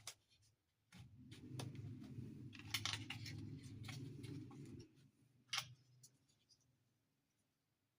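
Hands unpacking small plastic toy pieces: sharp clicks and snips, with a rubbing, scraping noise from about a second in until just before the five-second mark.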